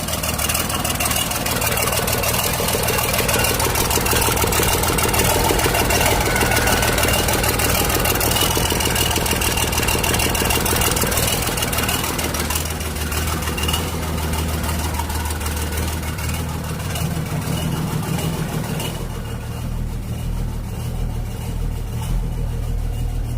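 Volvo excavator's diesel engine running steadily, with a thin high whine above it.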